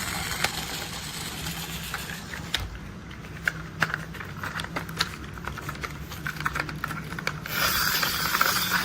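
Plastic toy construction vehicles being handled, with scattered clicks and taps over a light rustling noise that grows louder and denser near the end.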